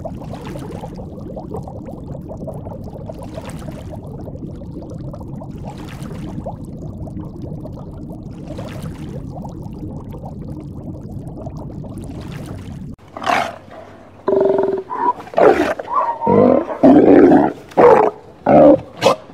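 A steady low rushing noise for about thirteen seconds, then a large animal's loud, irregular calls for the last several seconds.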